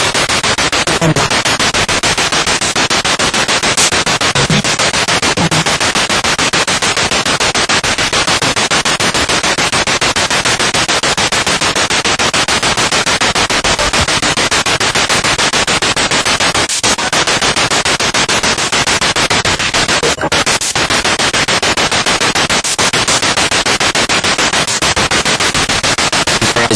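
Spirit box radio sweeping rapidly through stations: loud static chopped into fast, even pulses, with brief snatches of broadcast sound between the hiss.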